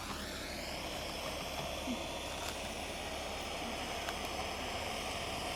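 Steady hiss of a torch heating a plastic water pipe to make it expand so a fitting can be slid inside.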